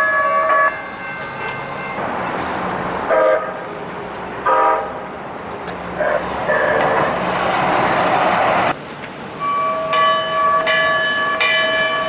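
Los Angeles Metro light rail train horn sounding: a held blast that stops under a second in, two short toots, then a long blast near the end with its upper notes pulsing. Between them comes a few seconds of rushing train noise.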